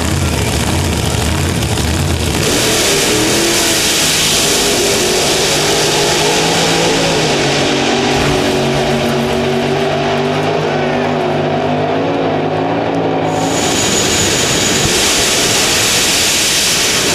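Jet dragster's turbine engine running with a loud, continuous roar. A set of engine tones rises and falls through the middle, while the high hiss dies back for several seconds and then returns.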